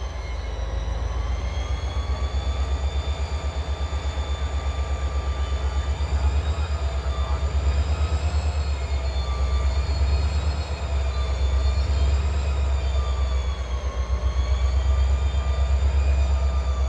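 Diesel locomotive of a CSX freight train running close by, a deep pulsing engine rumble with a steady high whine over it that wavers slowly in pitch.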